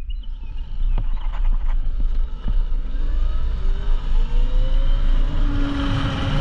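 QS138 70H electric hub motor of a swapped dirt bike whining up in pitch as the bike accelerates, then holding a steady whine near the end, over heavy wind rumble on the microphone.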